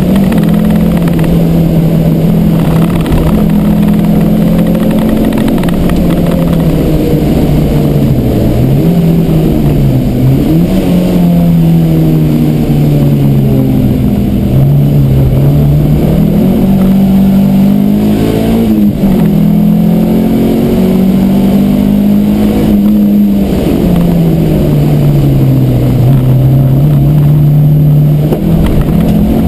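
Peugeot 309 GTI 16's 1.9-litre 16-valve four-cylinder engine heard from inside the cabin, loud throughout, its pitch climbing under acceleration and dropping at gear changes and on lifting for corners, with a sharp break about two-thirds of the way through.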